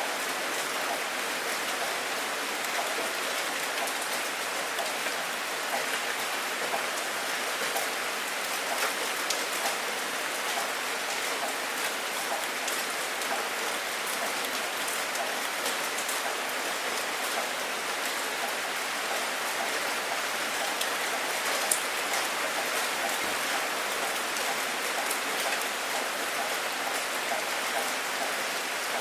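Steady rain falling, an even hiss with the patter of many individual drops landing on a surface.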